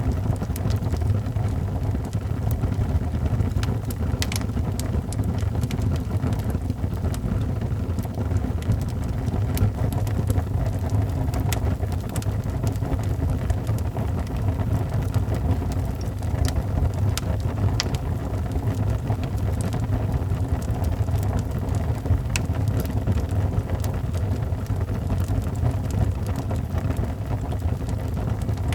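Wood fire burning in a fireplace: a steady low roar with scattered sharp crackles and pops throughout.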